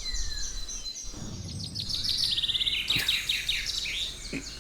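Birds chirping and calling, with a quick run of high repeated chirps about halfway through.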